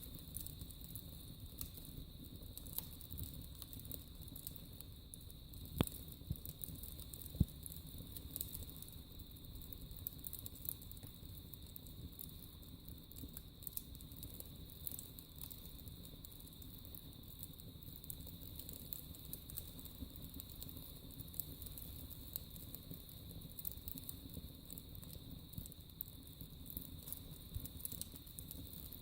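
Wood fire burning in a fireplace: a steady low rumble of flames with many small crackles and snaps, and two louder pops about six and seven and a half seconds in.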